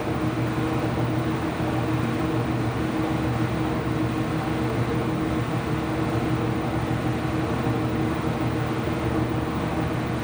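Ipso washing machine running mid-cycle: a steady mechanical hum with a constant low drone.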